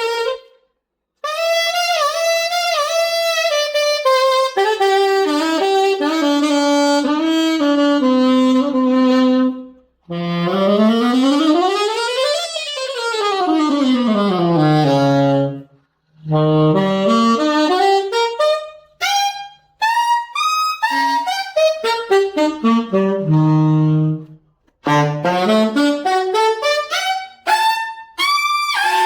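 An unbranded Chinese-made alto saxophone played solo in short melodic phrases with brief pauses between them. Around the middle it plays a fast scale run up and straight back down.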